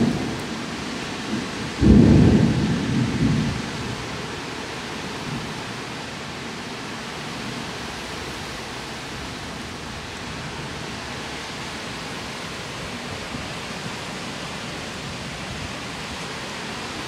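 Thunderstorm with strong wind: a brief low rumble at the start and a louder low rumble about two seconds in lasting a second or so, over a steady rushing noise of wind and rain.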